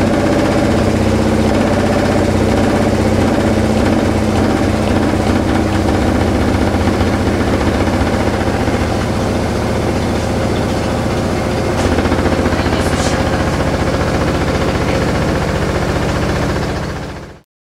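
LG washing machine running with a loud, fast, steady vibrating rattle: the abnormal vibration noise of a washer with a fault. The sound cuts off abruptly near the end.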